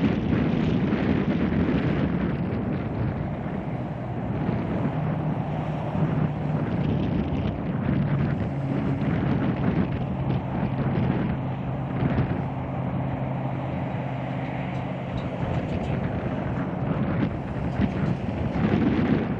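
Strong wind buffeting the camcorder's microphone in a steady rumble, over highway traffic noise from the interstate below. A low, steady engine drone from a passing vehicle runs through the middle part and fades near the end.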